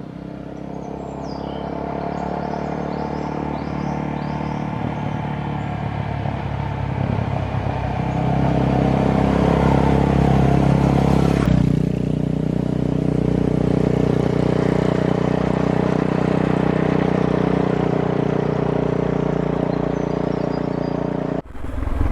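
Suzuki DR650 single-cylinder four-stroke engine running as the motorcycle is ridden. It gets louder over the first half, changes abruptly about halfway through, then runs steadily.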